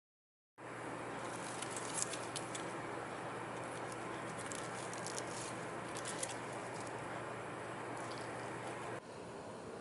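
Steady machine hum and air noise with light, crisp clicking and rustling from something being handled, mostly in the first half. The hum drops a little at a cut near the end.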